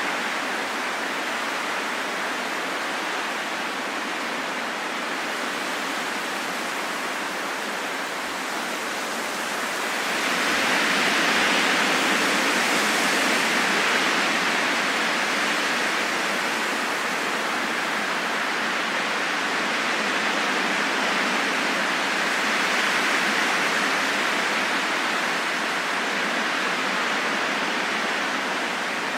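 Steady rushing wind with no pitch to it, swelling for a few seconds about ten seconds in and easing off, then rising gently again later.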